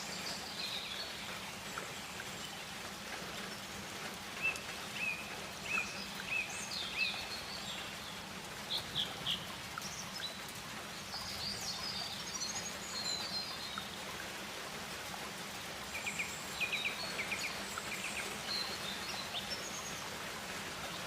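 Rainforest ambience: a steady background hiss with birds calling on and off, short chirps and quick repeated trills, coming in runs around a few seconds in and again near the end.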